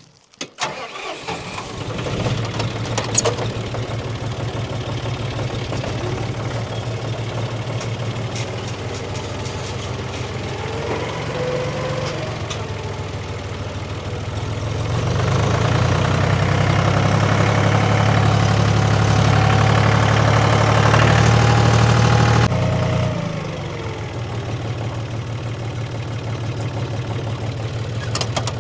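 An engine starts and settles into a steady run. About fifteen seconds in it speeds up and runs louder for several seconds, then drops back to idle.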